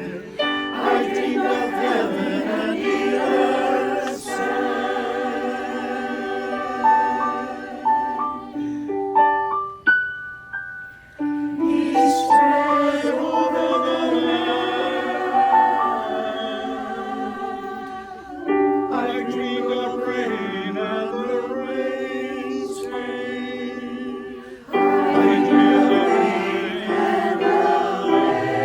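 Choir singing in harmony with long held chords. About ten seconds in the sound thins to a few single stepped notes before the full choir comes back in.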